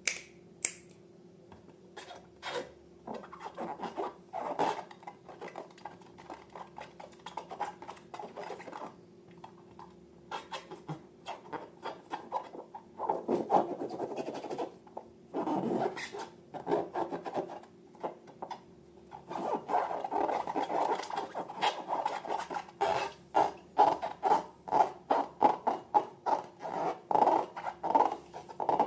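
Slime being worked by hand: a long run of small sticky crackles and squelches. They come in clusters and grow denser and louder in the second half.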